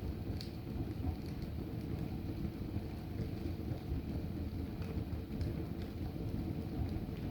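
Books and logs burning in a fireplace: a steady low rumble of flames with a few sharp crackles and pops.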